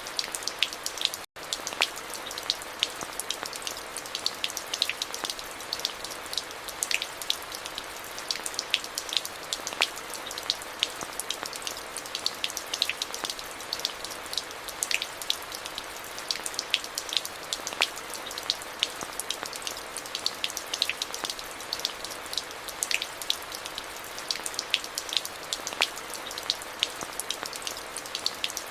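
Steady rain: an even hiss with many close individual drops ticking sharply on top. The sound drops out completely for an instant just over a second in.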